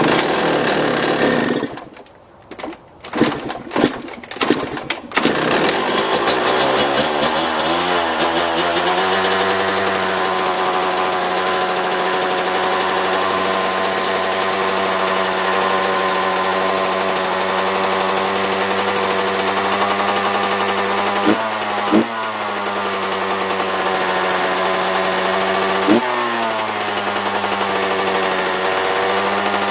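Two-stroke dirt bike engine running on diesel fuel: a few sputtering bursts, then it catches about five seconds in, rises in pitch and settles into a steady, rough run, stumbling briefly a couple of times later on.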